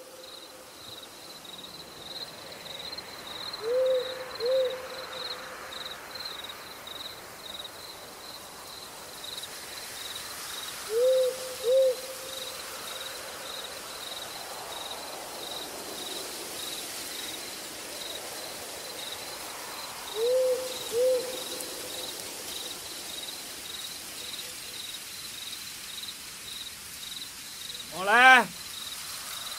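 Forest ambience: a bird hooting in pairs of short notes, three times several seconds apart, over a steady pulsing insect trill. Near the end comes one loud, short pitched cry.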